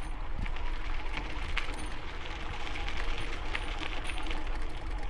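Strong wind rumbling and buffeting on the helmet-mounted camera's microphone, with many scattered clicks, crunches and rattles of a bicycle rolling over a rocky gravel trail.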